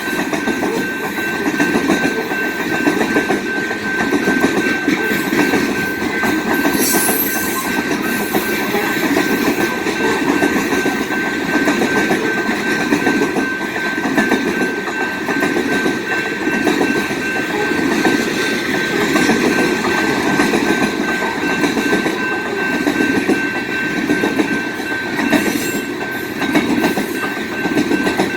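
BNSF freight train's cars rolling past close by: steady wheel-on-rail clatter that swells and fades over and over as the trucks pass, with a steady high-pitched ring or whine over it.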